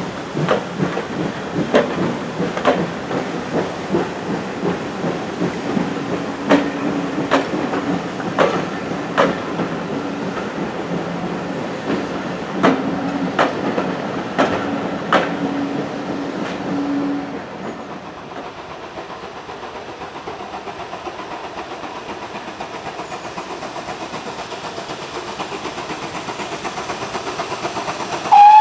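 Railway train running by, its wheels clicking irregularly over rail joints with a steady low tone beneath, for about seventeen seconds. The clicking then stops and gives way to a steady hiss that slowly grows louder.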